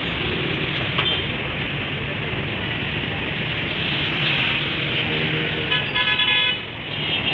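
Steady road traffic with a vehicle horn sounding a quick run of short toots about six seconds in.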